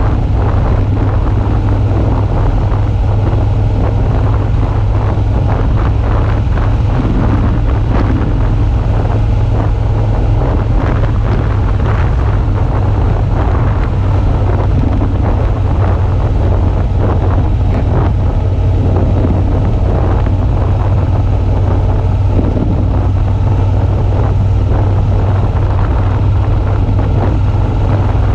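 Suzuki V-Strom 650's V-twin engine running steadily under way, with wind noise on the microphone.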